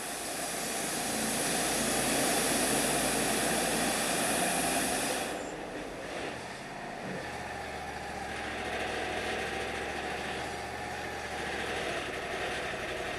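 Wood-Mizer LT35 bandsaw mill with its band blade cutting through a yellow pine log over the running engine; the cutting noise stops about five seconds in, and the mill's engine runs on steadily.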